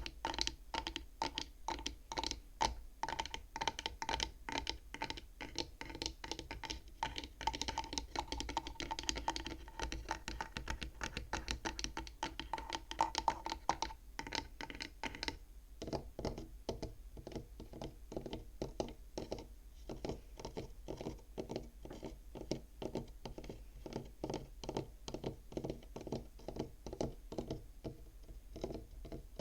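Rapid tapping on the wooden frame of a bead abacus toy, crisp and slightly ringing at first. About halfway through the taps turn duller and softer.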